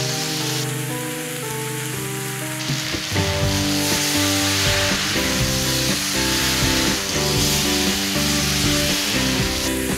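Chicken pieces sizzling in hot oil in a wok as they are stir-fried and turned with a spatula, a steady hiss throughout.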